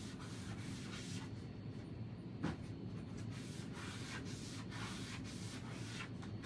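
Irregular rubbing strokes against a craft surface by hand, with a single light knock about two and a half seconds in, over a steady low hum.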